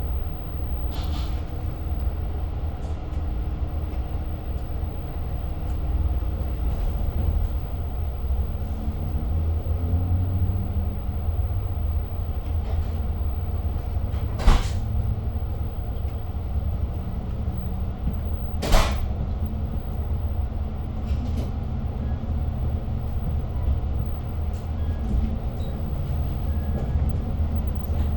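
Long Island Rail Road passenger train running, heard from inside the car: a steady low rumble, with a tone that climbs in pitch as the train picks up speed after the station stop. Two sharp knocks come about four seconds apart near the middle.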